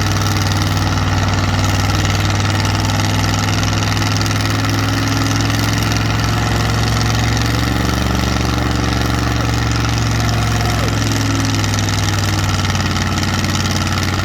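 Car engine idling steadily, with a slight shift in its note partway through.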